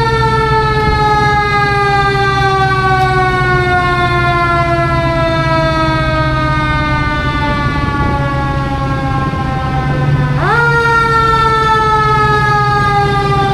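Fire engine siren gliding slowly down in pitch, then swept quickly back up about ten seconds in and falling slowly again. A steady low engine rumble runs underneath.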